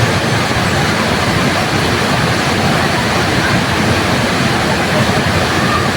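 Waterfall, a steady rush of falling water that does not change.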